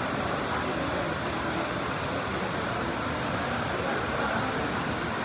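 Steady, even rushing noise with a low rumble underneath, holding at one level with no distinct events.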